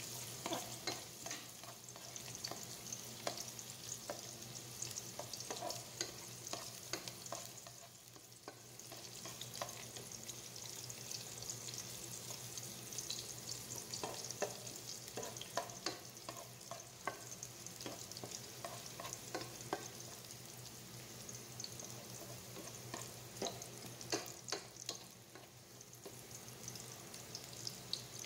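Garlic sautéing in cooking oil in a pot, a steady sizzle with a spatula scraping and knocking against the pot as it is stirred.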